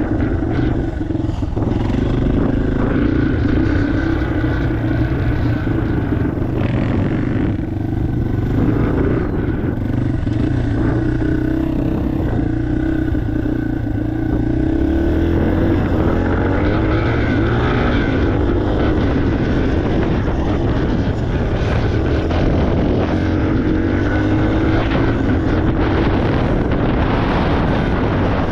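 Yamaha TTR 230 dirt bike's air-cooled single-cylinder four-stroke engine running under way, the engine note rising and falling with the throttle.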